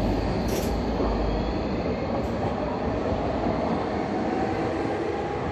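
Metro train running on the track past the platform: a steady rumble of wheels on rail, heaviest at first and easing a little toward the end.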